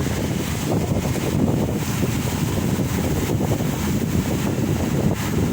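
Strong gusty wind buffeting the microphone, a loud, fluttering low rumble with a steady hiss above it.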